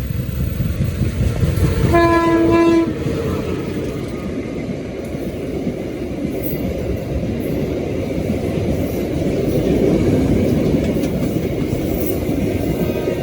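A train passing close by with a loud, steady rumble and rattle of wheels on rail. A short locomotive horn blast sounds about two seconds in.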